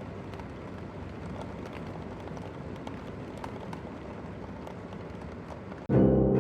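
Heavy downpour: a steady hiss of rain with dense dripping and splashing ticks. Near the end it cuts off abruptly and loud music begins.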